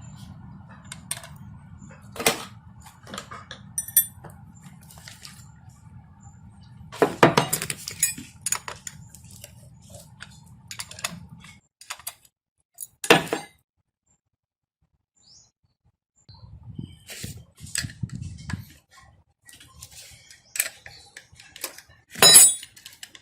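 Metal parts of an engine starter clinking and knocking as they are handled, in scattered sharp strikes, the loudest near the end.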